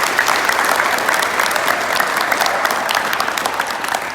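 A group of people applauding, a dense, steady clapping that fades out just after the end.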